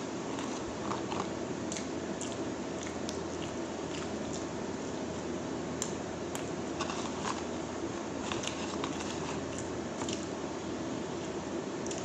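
Close-up chewing of ketchup-dipped french fries: soft wet squishes and many small mouth clicks over steady background noise.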